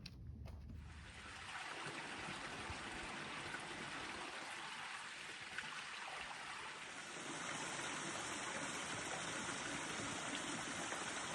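Steady rainfall, an even hiss that starts about a second in and grows heavier about seven seconds in.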